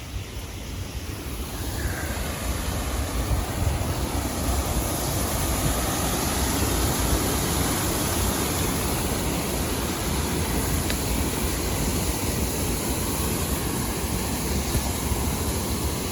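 Steady rushing of water at a falls, swelling over the first couple of seconds, with wind buffeting the microphone.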